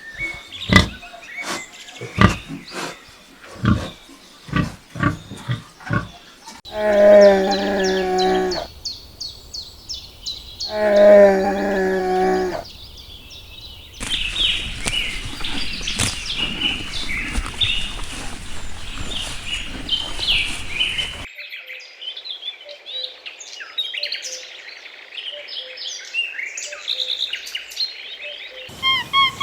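A run of animal recordings: first a series of sharp clicks, then two long pitched calls of about two seconds each, then birds chirping.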